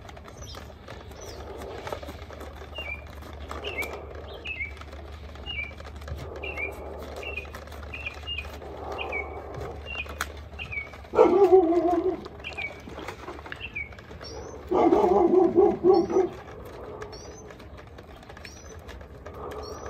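A songbird outside sings a long series of short notes that slide downward, about two a second, with a few higher chirps near the end. Twice, about 11 and 15 seconds in, a short low hum rises above it, the second longer and pulsing; these are the loudest sounds.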